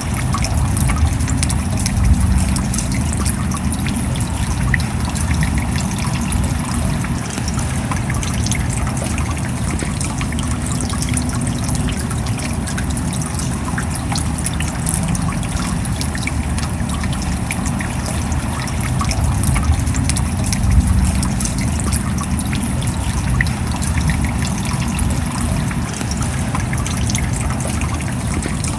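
Steady rain with water trickling, and many small drop ticks throughout.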